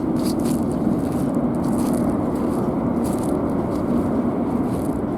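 Steady rushing of river water, loud and even, with light footsteps ticking irregularly over it.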